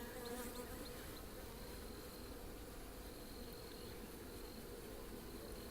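Honeybees from an open hive buzzing, a steady hum.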